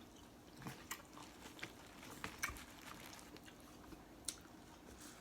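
Faint eating sounds: chewing with scattered small wet clicks and smacks, the loudest about two and a half and four seconds in.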